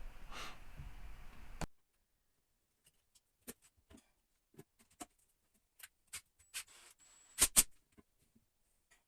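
Faint scattered clicks and taps from plastic toilet-seat and bidet-attachment parts being handled and fitted together, with two sharper clicks close together about seven and a half seconds in.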